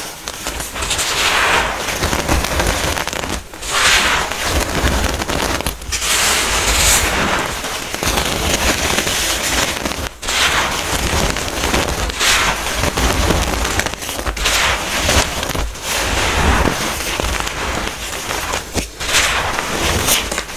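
Hardened baking soda being crushed, a dense gritty crunching and crackling that goes on with short pauses every few seconds.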